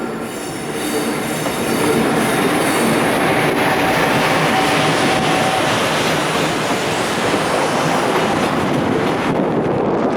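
A freight train made up of a JR Freight EF510 electric locomotive and container wagons runs close by on arrival: a steady loud rumble and clatter of wheels on rails that builds over the first two seconds, with a faint thin squealing tone through the first half.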